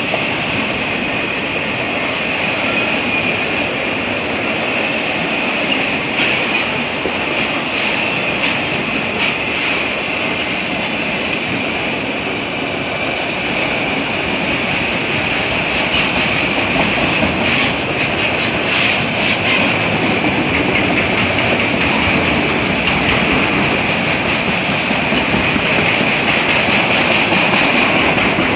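A freight train of autorack and boxcar cars rolling past close by: a steady, loud rumble and rattle of wheels on rail, with a high-pitched ringing tone held through it and scattered clicks.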